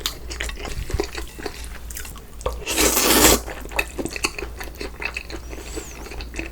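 Utensils clicking and scraping against a dish, with small wet, liquid sounds, and one louder brief rushing noise about three seconds in.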